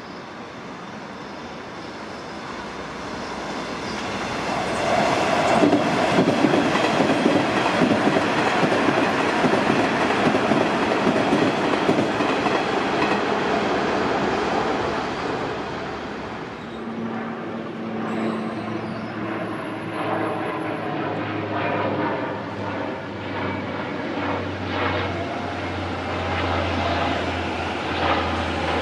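Electric commuter trains on elevated track. The first grows louder over about five seconds and rumbles past with wheel and rail noise. From about halfway, a second train runs past with a steady electric motor hum and rhythmic clickety-clack of wheels over rail joints.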